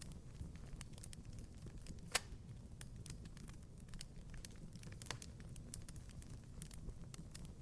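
Wood fire crackling in a fireplace: a low steady rumble of the flames with irregular sharp pops and snaps, one louder pop about two seconds in.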